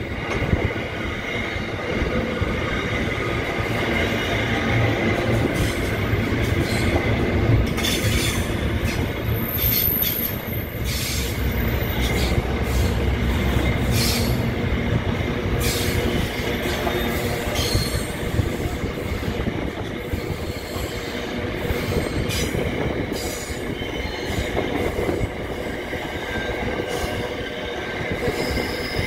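Container flat wagons of a freight train rolling steadily past: a continuous rumble of steel wheels on rail, with scattered clanks and knocks from the wagons and a brief high squeal about ten seconds in.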